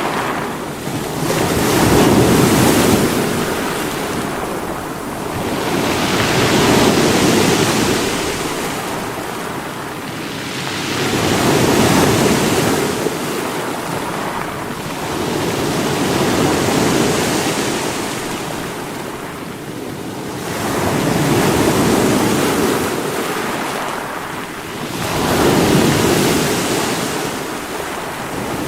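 Sea waves breaking on rocks, a steady rush of surf that swells and ebbs, with a wave peaking about every four to five seconds. Wind noise on the microphone runs under it.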